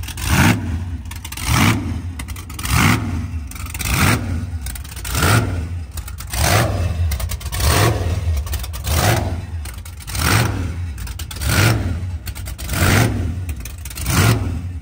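Burnout car's engine, its exhaust freshly cut down, being revved in repeated blips, about one every second and a quarter, each rising and falling away. The sound is full and deep.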